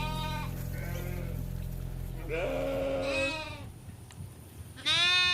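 Goats bleating: about four separate bleats, a faint one about a second in, a longer one in the middle and a loud one near the end.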